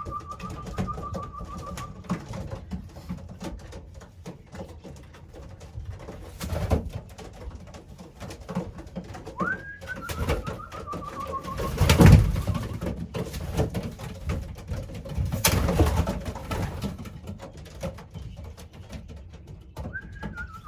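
Racing pigeons cooing in a small loft, with a few louder flurries of noise, the loudest about halfway through. A thin, falling whistle-like tone comes three times, about ten seconds apart.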